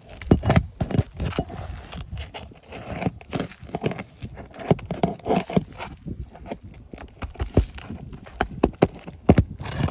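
Metal roof snake working under 3-tab asphalt shingles to get at the roofing nails: an irregular run of sharp metallic knocks and clicks with scraping between them.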